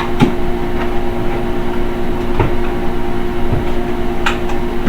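A steady machine-like hum with a few light clicks and knocks of kitchen items being handled, about four times.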